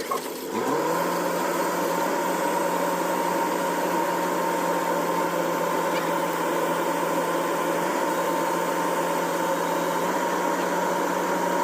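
Vehicle engine revving up about half a second in and then held at high, steady revs.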